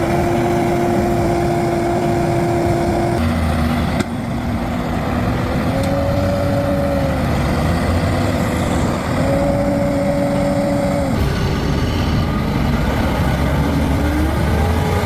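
Heavy diesel machinery engine running hard under load, its pitch climbing and dropping back twice as it is revved. It comes as several short clips cut together.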